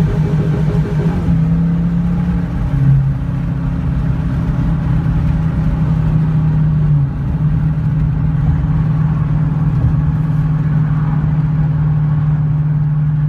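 Chrysler 5.7 L Hemi V8 running through a Flowmaster exhaust, held at steady high revs. The pitch shifts about a second in and dips briefly twice, near three and seven seconds in.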